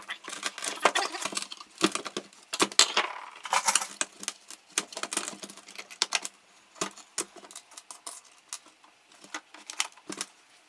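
Small metal parts and hand tools clicking and clinking irregularly as they are handled on a workbench.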